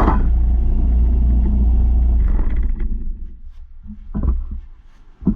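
A steady low machine rumble with a faint hum, dying away about halfway through, then two sharp knocks near the end.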